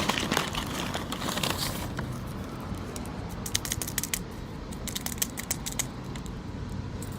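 A person eating a McDonald's McDouble burger: chewing, with two clusters of quick sharp clicks near the middle.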